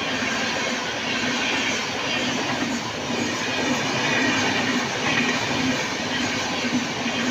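Express train passing through a station at high speed: steady rush and rattle of coaches running over the rails, with a repeating beat from the wheels.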